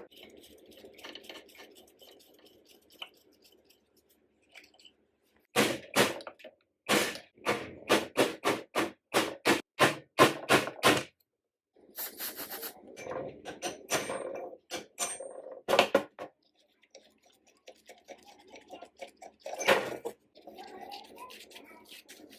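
Hand tools working on metal parts of an antique sewing machine: a run of sharp knocks or strokes about twice a second, then a few seconds of scraping, with scattered clicks and knocks of parts being handled.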